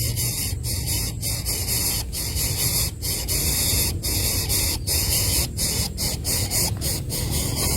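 Steady hiss over a low rumble, broken every half second to a second by brief dropouts; no bird calls stand out.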